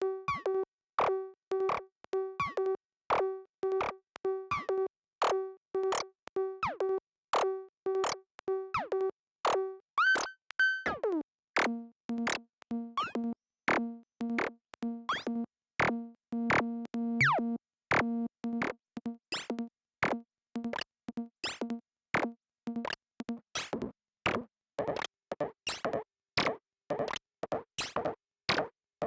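Lorre-Mill Double Knot synthesizer playing a sequenced patch: a short pitched note repeating about twice a second, a quick pitch glide about ten seconds in, then a lower steady tone under repeating strikes, turning to fast, sharp, clicky percussive hits in the last few seconds.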